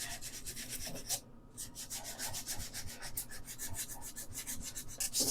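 Hand sanding of a metal part, quick back-and-forth strokes with a short pause about a second in.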